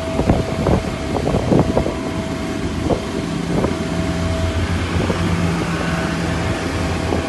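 A steady engine hum with wind buffeting the microphone, and a few short knocks in the first two seconds.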